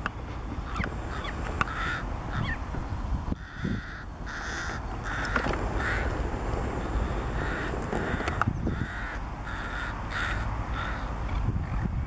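A bird giving a long series of short, rough calls, several a second, in runs with short gaps between them.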